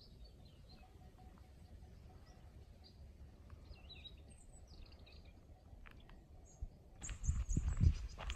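Faint wild birds chirping, scattered short high calls over quiet open-air ambience. About seven seconds in, louder rustling and low thumps come in.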